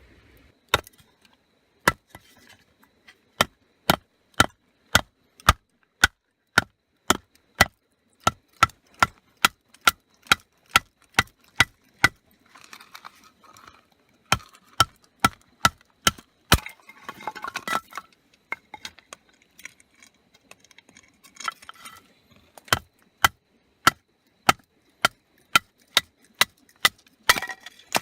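A long run of sharp tool strikes, about two a second, each with a brief ring. The strikes pause for a few seconds past the middle, where there is rustling, then start again.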